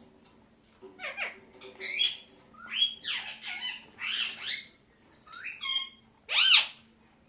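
Pet parakeet squawking and chattering: a run of short calls that slide sharply up and down in pitch, with the loudest, an arched rise-and-fall call, near the end.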